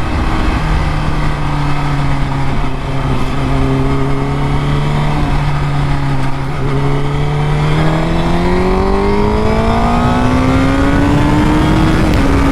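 Honda Fireblade's inline-four engine running at a steady pitch, then rising smoothly in pitch over the last few seconds as the bike accelerates.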